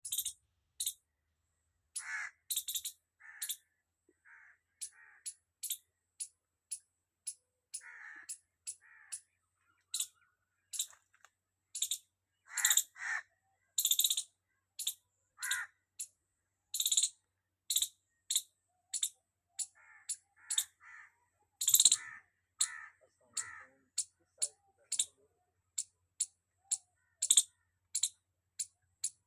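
Squirrel chirping loudly: a long run of short, sharp calls at an uneven pace of about one or two a second, some high and thin, others lower and slightly longer.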